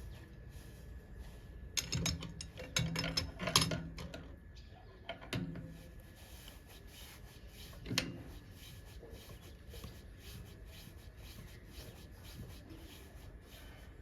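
Metal clicks and rattles of angle grinder parts and tools being handled, in a cluster about two to four seconds in, then single knocks a little later and near eight seconds, over a faint evenly pulsing background hiss.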